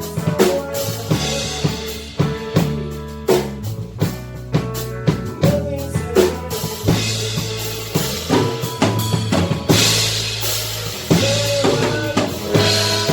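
A live rock band playing an instrumental: a drum kit with kick, snare and rimshot hits keeps a steady beat over sustained bass guitar notes, with cymbal crashes near the end.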